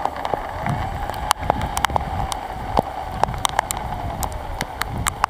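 Heavy rain: drops ticking sharply and irregularly on the microphone over a low rumble of wind on it, with the faint whine of a radio-controlled model plane's motor slowly falling in pitch.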